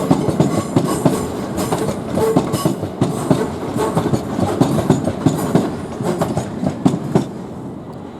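Southern Class 377 electric multiple unit passing, its wheels clattering over track joints in a rapid, uneven run of knocks that fades near the end as the last carriages go by.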